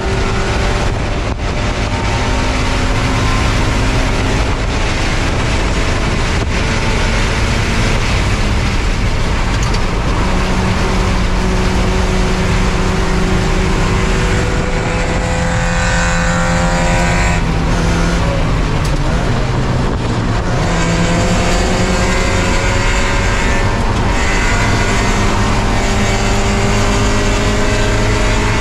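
Spec Miata race car's four-cylinder engine running hard at racing speed over steady wind and road noise. Its pitch climbs, drops back and climbs again several times, with a brief lull a little past halfway.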